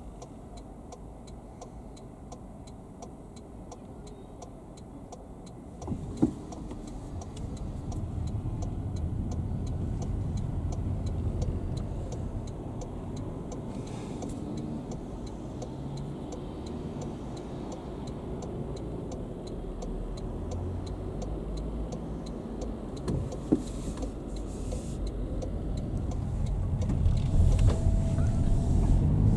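A car driving, heard from inside: steady ticking over a quiet low rumble, then a sharp click about six seconds in. After the click the ticking stops and the low engine and road noise swells and keeps going as the car gets moving, with a couple of knocks along the way.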